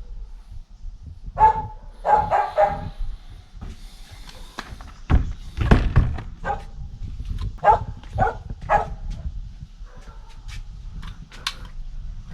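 A dog barking in short clusters: one bark, then three quick barks, and later three more. A low rumble rises about five seconds in.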